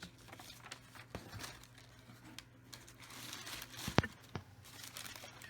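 Handling noise: scattered rustling and small clicks, with one sharp click about four seconds in and a smaller one just after, over a faint steady hum.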